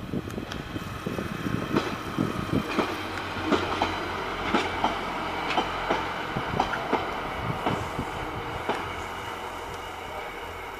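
Two-car Pacer diesel railbus moving through the station: its wheels clatter over rail joints and pointwork in pairs of clicks about once a second, over a steady engine drone. The sound peaks mid-way, then fades as the unit draws away.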